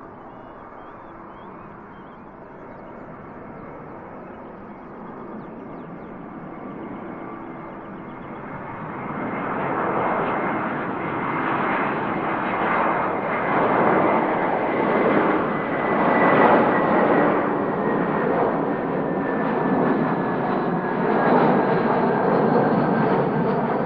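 Airliner engines growing steadily louder about nine seconds in and staying loud, with a whine that slowly falls in pitch as the aircraft passes.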